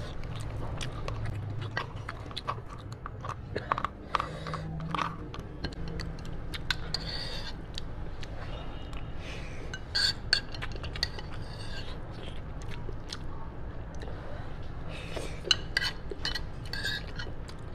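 Close-miked eating sounds: wet chewing and lip smacking over roasted sheep's head meat, many small sharp clicks with a few louder wet bursts.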